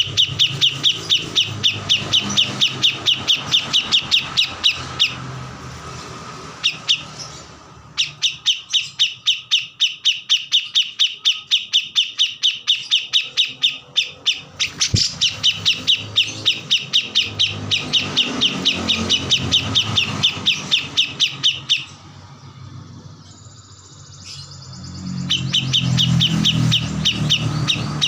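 A kores songbird singing in full song: fast runs of sharp, evenly repeated chirps at about five or six a second, broken by two short pauses.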